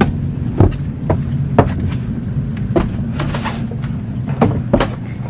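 Scattered short knocks and clicks, about seven in all, over a steady low hum.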